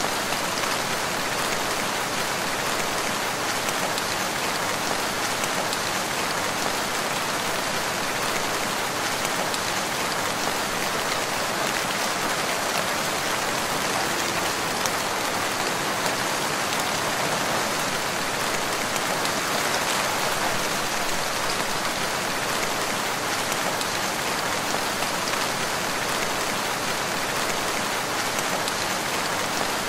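Steady, even rainfall in a forest, a dense patter of raindrops.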